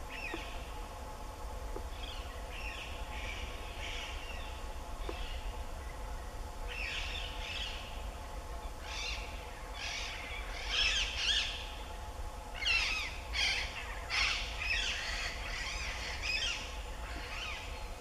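Birds calling in quick clusters of short, high chirps, sparse at first and then denser and louder from about seven seconds in, over a steady low rumble.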